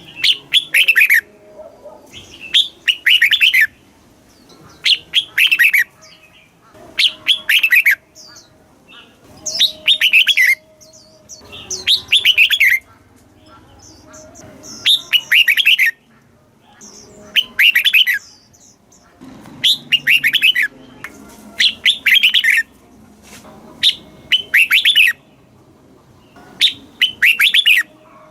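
Red-whiskered bulbul singing: short phrases of quick, falling notes, repeated about every two seconds.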